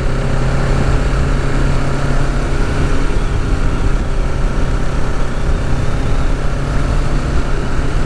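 Kawasaki Ninja 650's parallel-twin engine running at a steady cruise, its pitch holding even throughout.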